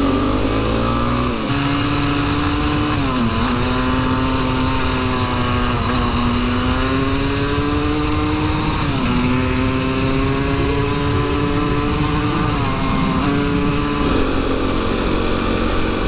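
Dirt bike engine running under way at fairly steady revs, its pitch dipping briefly about four times and dropping near the end, with low wind rumble underneath.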